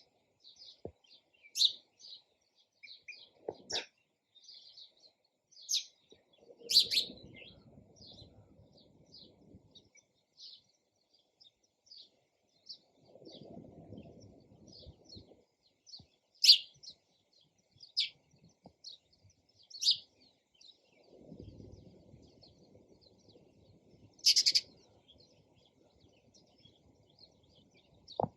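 Sparrows chirping: a steady scatter of short, high chirps with about nine louder ones spread through. A faint low rumble comes and goes three times underneath.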